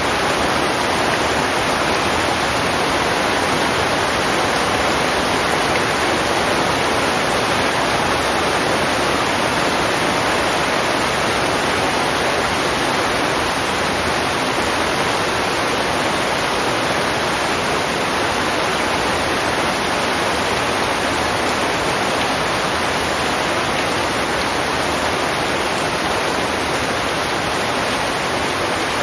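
Heavy rain falling in a steady, dense hiss, with no single drops or thunder standing out.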